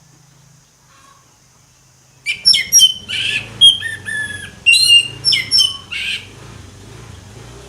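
Orange-headed thrush singing: after a quiet start, a loud burst of rapid, varied notes mixing clear whistles and harsher squawky notes begins about two seconds in and lasts about four seconds.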